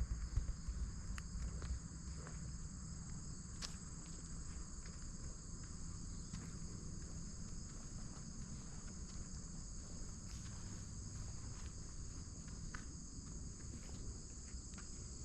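Steady chorus of crickets, a continuous high trill that does not change, over a low rumble, with scattered faint ticks.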